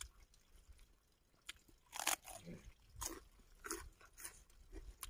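Close-miked mukbang eating: a person chewing a mouthful of food with short crunching bites. The crunches start about two seconds in and come about once a second or a little faster.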